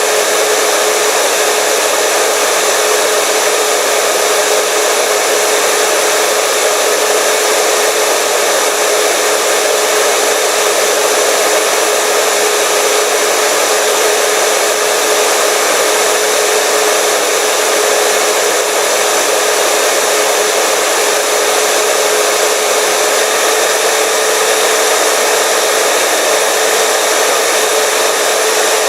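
Hair dryer running steadily: a constant rush of blown air with a steady whine, with no change in speed or pitch.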